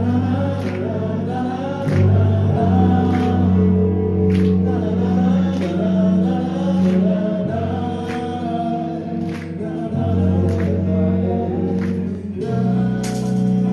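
Live band music with singing: a sung melody over sustained bass notes that change every few seconds, with a steady drum beat.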